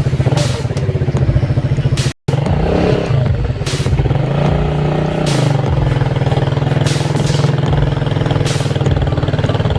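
Motorcycle engine running while being ridden, a steady close-up rumble whose note wavers with the throttle a few seconds in. The sound cuts out for an instant about two seconds in.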